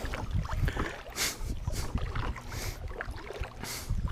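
Kayak paddle strokes in the water, a swishing splash every second or so, over wind rumbling on the microphone.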